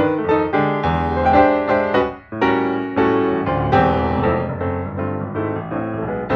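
Background piano music, a run of struck notes and chords with a short break about two seconds in.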